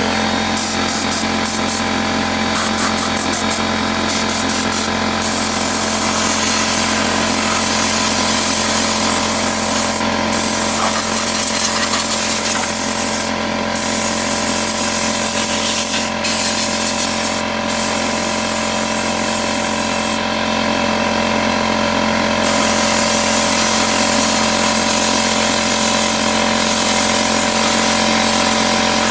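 Small pump running steadily with a constant hum, circulating descaling solution through a tankless water heater's heat exchanger.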